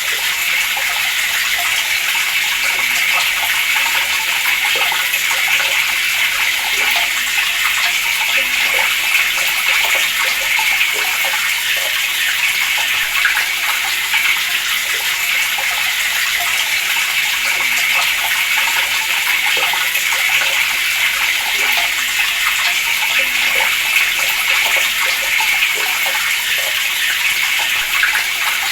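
Water running steadily from a tap and splashing, a constant rushing hiss.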